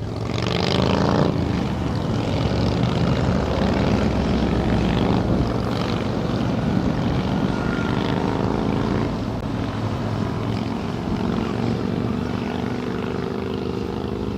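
Motorcycle engine under way on the open road, with wind rush. It picks up speed in the first second or so, then runs at a steady cruise.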